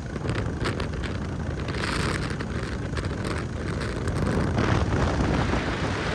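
Wind buffeting the microphone over the steady low rumble of a Royal Enfield Classic single-cylinder motorcycle being ridden.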